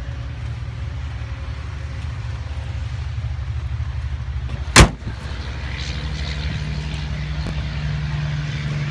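Pickup truck hood slammed shut once, a single loud bang about five seconds in, over a steady low rumble.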